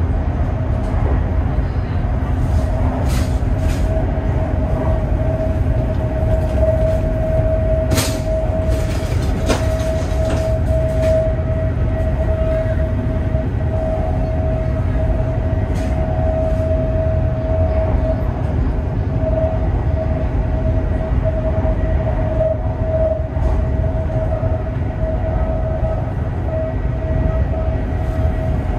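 Running noise inside a high-speed train carriage at speed: a steady low rumble with one constant mid-pitched hum over it. A few sharp clicks come through in the first half.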